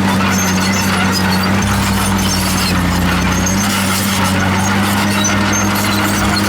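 Komatsu D51PX crawler bulldozer working: a steady diesel engine drone under many short, high-pitched squeaks from the steel tracks. A deeper rumble swells for a couple of seconds in the middle.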